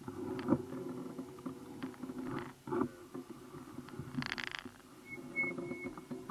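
Bicycle ride noise picked up by a bike-mounted camera: a steady low rumble with scattered knocks and rattles, and a short hiss about four seconds in. Three faint, short, high beeps sound around five seconds in.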